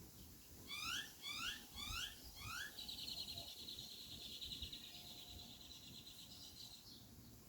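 Birdsong: four quick rising whistled notes, followed by a long, fast, high-pitched trill held for about four seconds.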